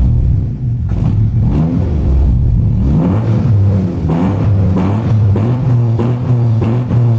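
Skoda Felicia running through a new exhaust and being revved, its note rising and falling a few times in the first half, with music playing alongside.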